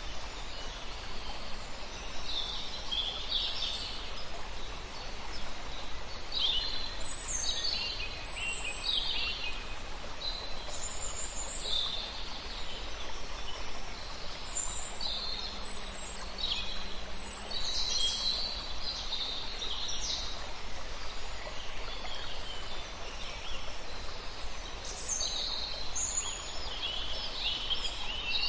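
Several wild birds singing and calling, with short high chirps and trills coming every second or two over a steady background hiss.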